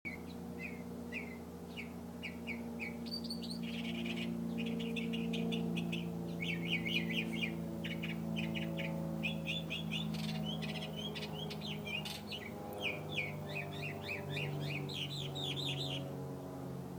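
A songbird singing a long, varied song: spaced chirps at first, then quicker runs of rapid trilled notes from about three seconds in, stopping about a second before the end. A low steady hum lies beneath it.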